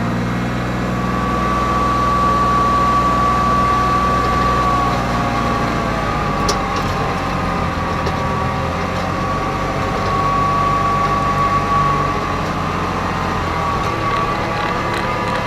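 Diesel engine of farm machinery running steadily, with a thin high whine that comes and goes over it.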